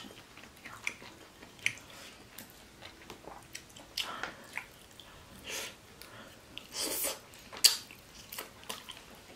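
Two people chewing and biting grilled pork intestine (isaw) off bamboo skewers, in short scattered bursts with a few sharp clicks, the loudest one late on.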